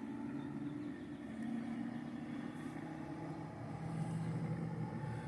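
Four-stroke outboard motor running steadily on a flushing water supply while its newly replaced water pump is tested. Its pitch shifts slightly.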